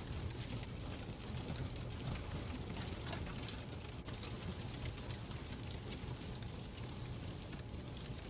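Fireplace crackling: a dense, irregular patter of small crackles over a steady low rumble.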